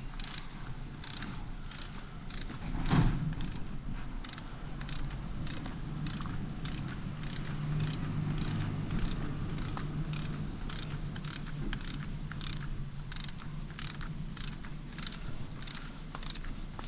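Ratchet wrench clicking steadily at about three clicks a second as a hydrant bolt is turned. A single louder knock comes about three seconds in.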